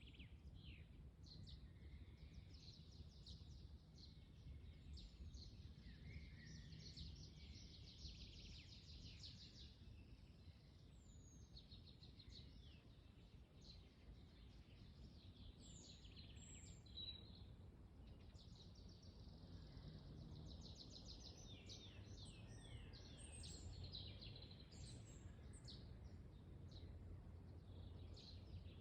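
Faint forest ambience: several small birds chirping and trilling over a steady low rumble of wind.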